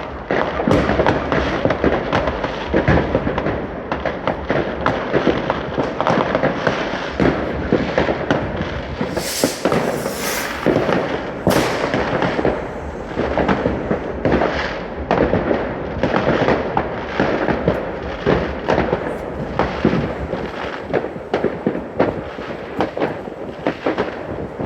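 New Year's Eve fireworks: firecrackers and rockets banging and crackling in a dense, unbroken barrage, with a few high hissing bursts near the middle.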